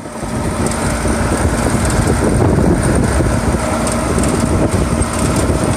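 Steady, loud vehicle rumble with a hiss on top.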